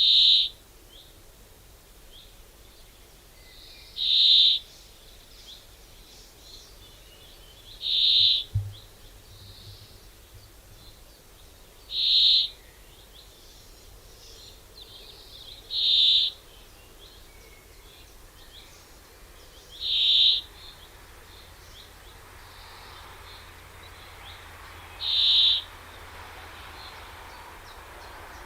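A bird giving one high call over and over, seven times, about every four seconds.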